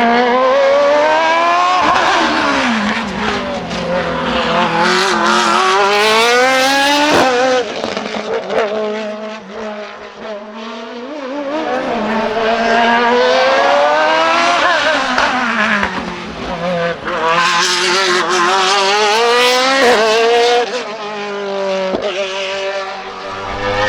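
Racing car engines accelerating hard up a hill climb course. The revs climb steeply and drop sharply at each upshift. The sound fades briefly about ten seconds in, then another burst of acceleration through the gears follows.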